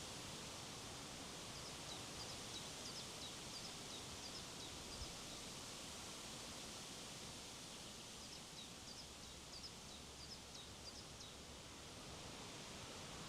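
Steady wind noise with a rustle through vegetation. Over it, a small bird twitters in two runs of quick, high chirps, about two seconds in and again about eight seconds in.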